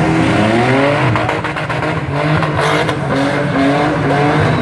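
Several demolition-derby car engines revving together, their pitches rising and falling as the cars accelerate and back off, with a run of sharp knocks between about one and two seconds in.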